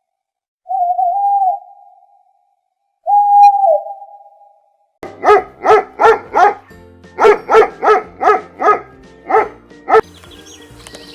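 Two drawn-out whistled calls, each holding one pitch and then dropping, followed by a dog barking about a dozen times in quick runs of several barks.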